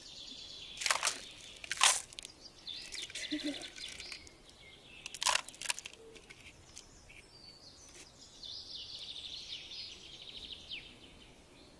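Birds chirping in quick trills, with a few sharp crunching clicks in between.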